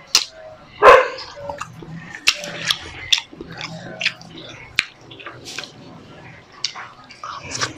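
Close-miked eating sounds: chewing and lip-smacking on grilled milkfish and fried eggplant eaten by hand, a run of short wet clicks and smacks, with one sharp, much louder sound about a second in.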